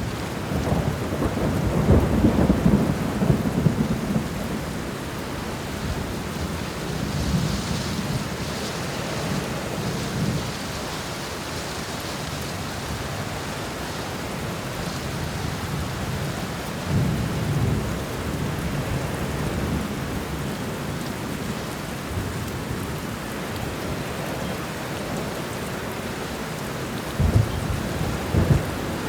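Steady heavy rain falling through a thunderstorm. Low rolls of thunder swell and fade several times, the strongest in the first few seconds and again near the end.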